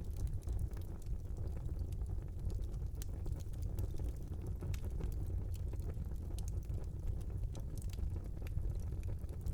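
Wood fire burning in a small fireplace: a steady low rumble of flames with frequent sharp crackles and pops scattered irregularly through.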